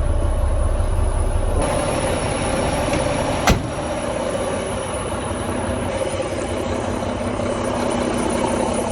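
Semi-truck diesel engine idling steadily, warming up in the cold. A single sharp knock comes about three and a half seconds in.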